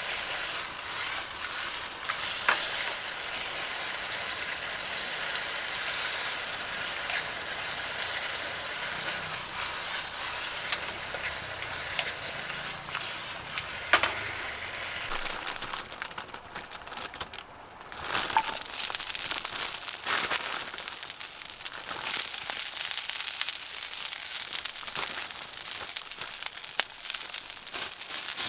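Food sizzling in a frying pan, a steady hiss with occasional sharp clicks. The sizzle fades for a moment about two-thirds of the way through, then comes back louder.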